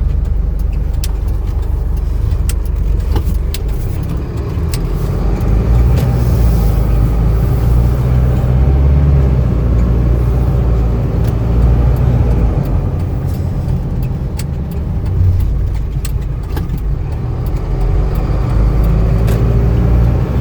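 2020 Hino 155 box truck on the move, heard from inside the cab: a steady low diesel engine rumble and road noise, with scattered light ticks and rattles.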